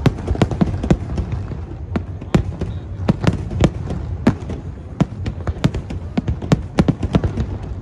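Aerial fireworks shells bursting in a rapid, irregular series of sharp bangs, several a second, over a continuous low rumble.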